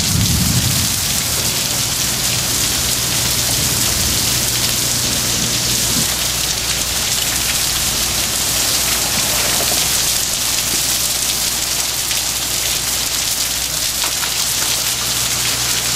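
Heavy hurricane rain pouring down in a steady, even hiss. A brief low rumble comes right at the start, and a faint steady low hum runs underneath.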